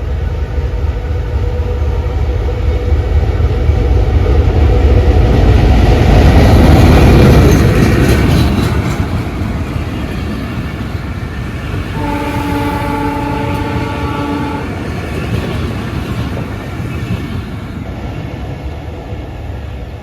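Train passing close by, its rumble swelling to a peak and then fading as it goes. Partway through, the horn sounds one steady blast of about two and a half seconds.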